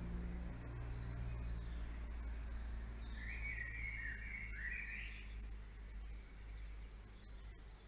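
Several wild birds singing in the morning, with scattered high chirps and one louder warbling phrase about three seconds in that lasts around two seconds. A steady low hum runs underneath.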